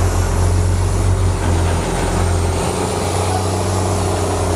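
Heavy diesel engine of earthmoving equipment running steadily with a deep, low hum, under a faint high whine that drifts slightly in pitch.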